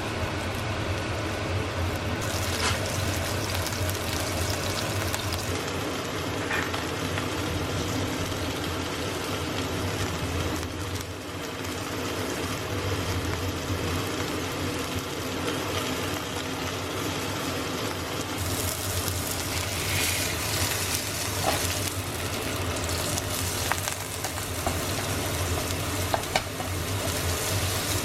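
Food frying in a pan, sizzling steadily over a low steady hum, with a few light clicks in the last third.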